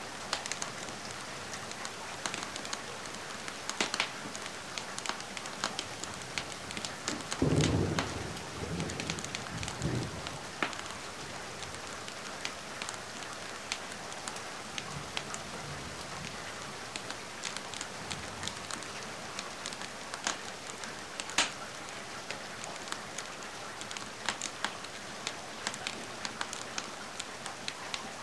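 Steady rain mixed with a crackling wood fire, its sharp pops scattered throughout. A brief low rumble comes about a quarter of the way in.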